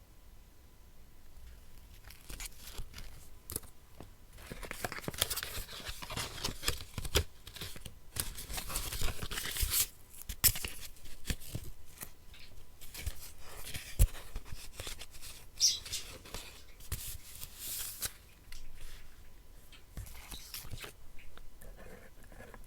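Paper being cut with scissors and torn by hand, in bursts of crisp rustling with sharp snips and clicks, busiest in two long spells.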